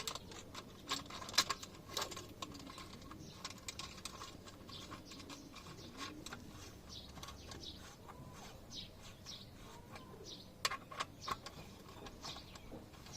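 Irregular light metallic clicks and taps of a box spanner working the nut on the motorcycle's exhaust mounting. Faint bird chirps sound in the background.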